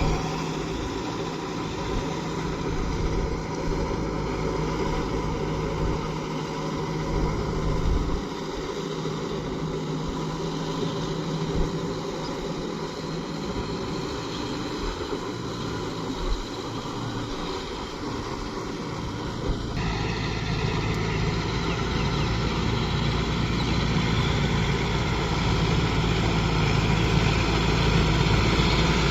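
Kubota MU 5502 tractor's diesel engine running steadily. About two-thirds of the way through its sound deepens, and it then grows gradually louder.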